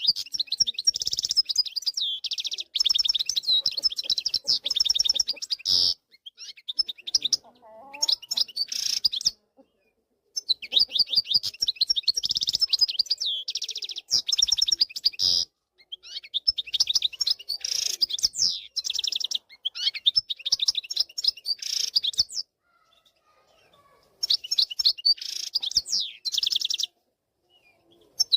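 European goldfinch of the wild (khalawi) song type singing its fast, liquid twittering song. The song comes in several long runs of rapid notes, broken by short pauses.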